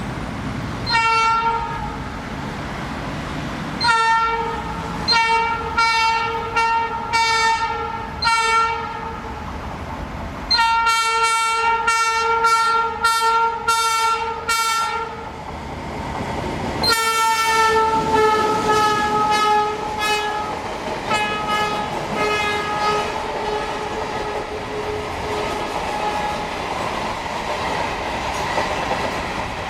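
GR12 diesel locomotive's horn sounding a greeting to the trackside: a short blast, then a string of short toots and two long blasts, the last one dropping slightly in pitch as the locomotive passes. Near the end the horn gives way to the clickety-clack of the container flatcars rolling by.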